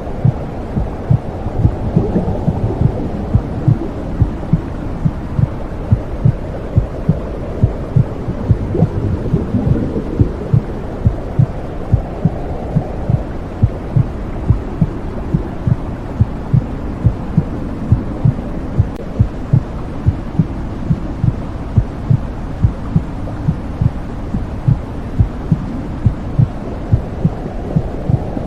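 Womb sound: a muffled, regular heartbeat thudding steadily over a low, rushing whoosh that slowly swells and fades.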